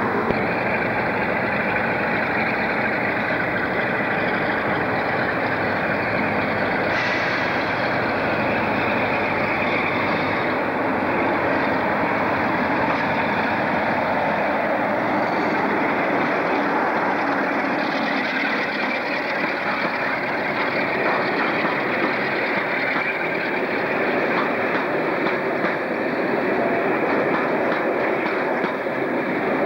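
Diesel locomotive hauling a passenger train approaching along the platform and passing close by, its engine running steadily, followed by the coaches rolling past on the rails.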